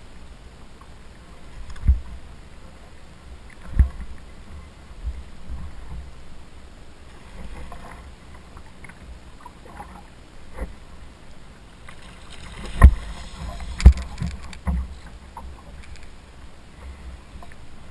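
Scattered knocks and thumps on a kayak, the loudest two about a second apart past the middle, over a steady low background rush.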